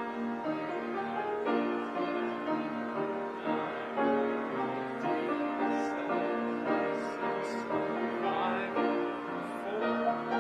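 Piano music: chords and melody notes played and held, with no singing or speech.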